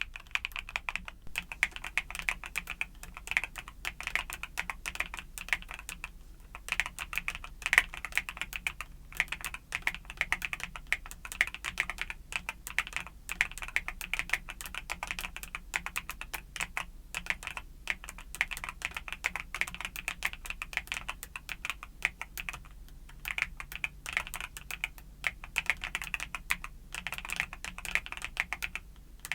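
Typing on a mechanical keyboard with YUNZII Cocoa Cream switches: a steady stream of quick keystroke clicks, broken by a few brief pauses.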